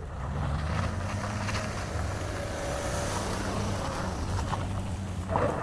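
Motor vehicle engine running steadily with a low drone.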